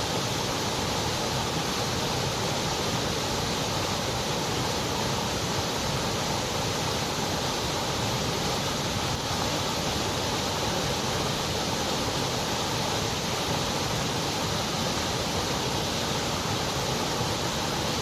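Steady white noise: an even, unchanging hiss spread across all pitches, with no events or changes.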